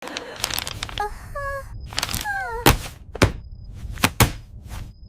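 Animation sound effects: a low steady rumble with several sharp thuds, and a couple of short falling vocal moans early on.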